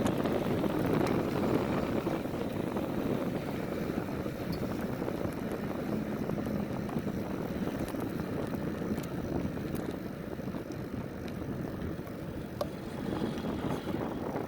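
Steady rush of wind on the microphone and tyre rumble from a trail bike rolling along a cement path, with a few faint light clicks and rattles.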